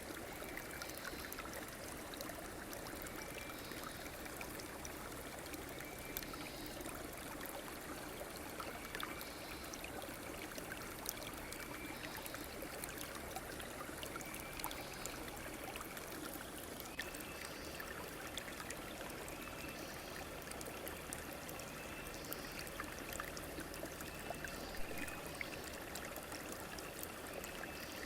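Stream or small river running steadily, a continuous rush of flowing water. Faint short high calls recur every second or two behind it.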